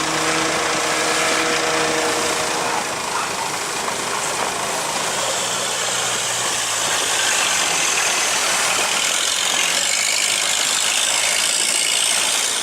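A boat's engine running steadily under a constant hiss, with a low hum that is clearest in the first few seconds.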